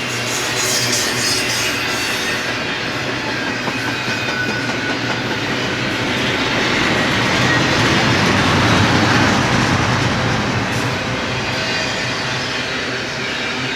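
Freight train rolling past on the rails, a steady rumble of wheels on track with a low hum underneath. It grows louder about eight seconds in and eases off near the end.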